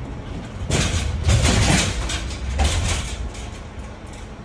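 Rear roll-up door of a box truck sliding along its track, a rattling rush lasting about two seconds that peaks in the middle and tails off.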